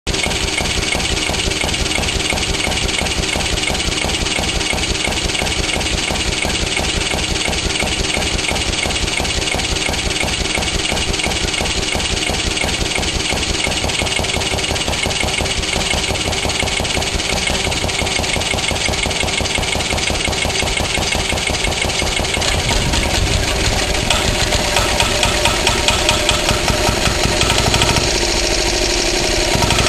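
1960s Yanmar L5 5 hp diesel engine running with a fast, even knocking beat, getting louder and heavier about 22 seconds in.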